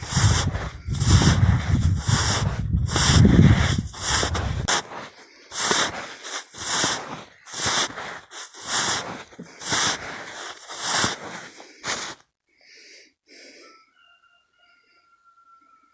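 Footsteps crunching through snow at a slow walking pace, about one step a second, stopping about twelve seconds in after two fainter steps. A faint thin steady tone follows near the end.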